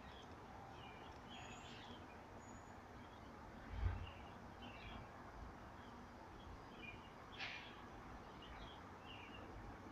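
Faint birds chirping, scattered short chirps over a steady background hiss, with a brief low thump about four seconds in.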